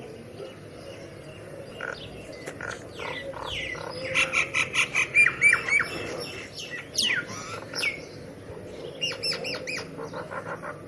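Birds calling: a run of harsh squawks and chattering chirps with quick falling notes, loudest in the middle, with another short burst near the end.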